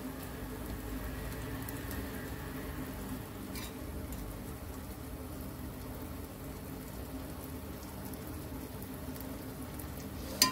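Masala cooking in a cast-iron kadai, giving a low, steady sizzle over a faint steady hum. There is a faint tick about three and a half seconds in and a sharp click near the end.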